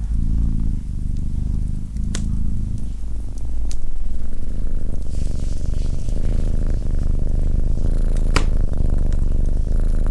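Domestic cat purring close to the microphone, a steady low rumble that grows a little louder about four seconds in, with a few sharp pops.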